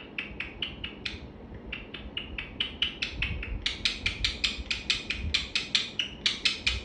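A pet parrot making a rapid, even series of short sharp sounds, about five a second, growing louder about halfway through.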